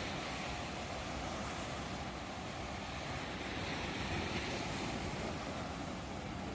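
Ocean waves washing onto a shore, a continuous rushing surf noise that swells slightly and eases without any distinct breaks.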